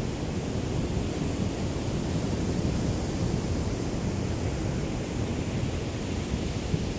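Small waves of a calm sea lapping on the shore, a steady low wash with no separate breakers standing out, mixed with a light breeze.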